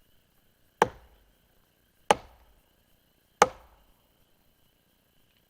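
Three sharp chopping strikes, evenly spaced about 1.3 seconds apart, each dying away quickly.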